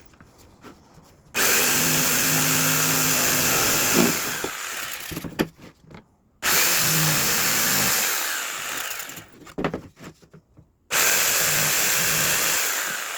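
Power tool working a wooden fence picket in three bursts of a few seconds each. Each burst starts suddenly and tapers off, with short quiet gaps between.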